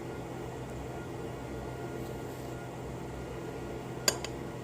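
Steady low hum of room tone, with one sharp click near the end.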